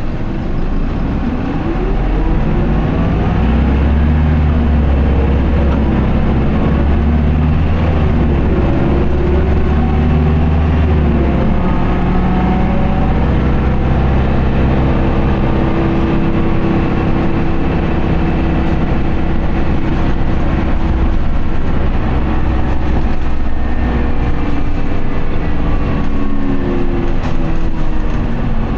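Isuzu Erga Mio city bus's 5.2-litre four-cylinder turbodiesel pulling hard in power mode. Its pitch rises as it accelerates, drops about ten seconds in as the gear changes, then holds a strong, fairly steady note.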